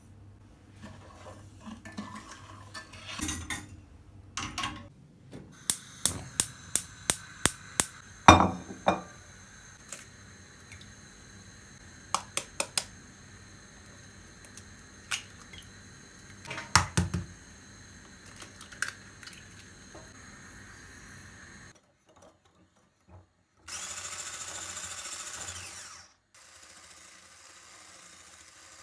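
A run of sharp clicks and knocks from objects being handled, including a quick series of about seven clicks and one loud knock. Near the end comes a hiss lasting about two seconds.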